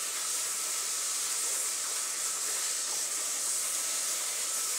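Steady, even hiss with a faint high whine held under it.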